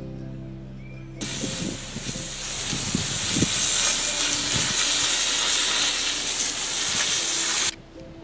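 A loud, steady hiss that starts about a second in and cuts off suddenly near the end, with a few dull knocks under it, over soft background music.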